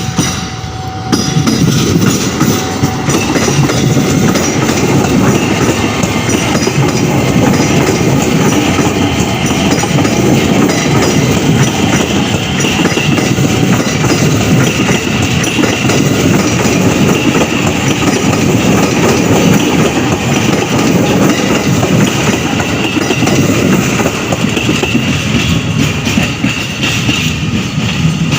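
KRL electric commuter train running on the tracks: a loud, steady rumble throughout, with a faint higher whine coming in about halfway through.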